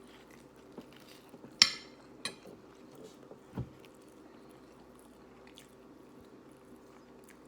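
Tableware and food handled during a meal: a few sharp clicks, the loudest about one and a half seconds in, and a dull knock at about three and a half seconds, over a faint steady hum.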